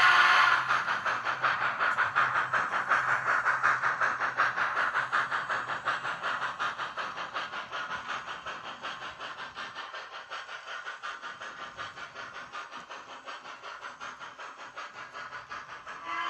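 Sound decoder of a Kato GS4 model steam locomotive: a steam whistle ends about half a second in, then a fast, even run of steam chuffs, about five a second, slowly grows fainter.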